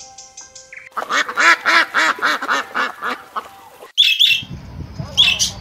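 A few notes of music, then a rapid run of short animal calls, about six a second, for two and a half seconds. After a break, macaws give sharp, harsh squawks about four seconds in and again near the end.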